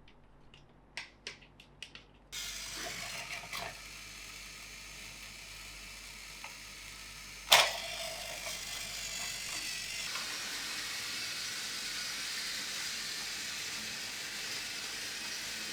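Plastic toy train parts clicking a few times, then a steady mechanical whir with one sharp click about halfway through.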